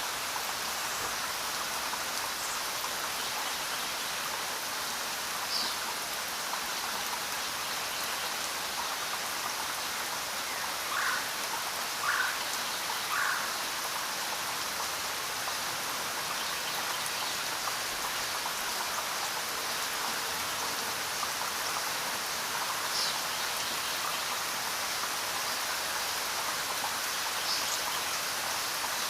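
Steady rain falling as an even hiss of drops, with a few brief louder taps, three of them close together near the middle.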